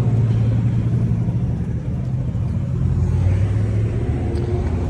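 A motor vehicle engine running steadily at low speed, a low hum that drops slightly in pitch a little after two seconds in.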